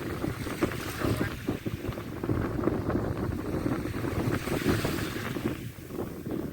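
Wind buffeting the microphone in uneven gusts, over the wash of sea waves on the shore.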